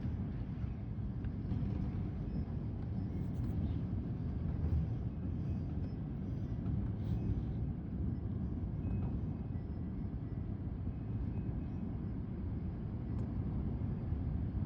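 Wind buffeting the microphone as a steady, uneven low rumble.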